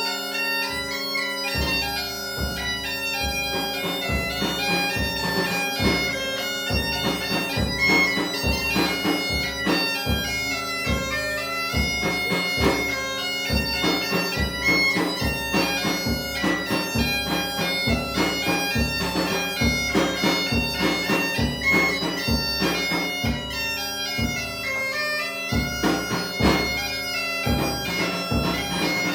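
Galician gaita (bagpipe) playing a tune over its steady drone, accompanied by a snare drum and a bass drum beating in rhythm. The drums come in about a second and a half in and drop out briefly near the end before resuming.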